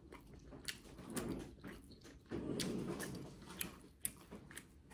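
Close-up chewing and wet mouth sounds of someone eating seafood boil, with scattered small clicks and smacks.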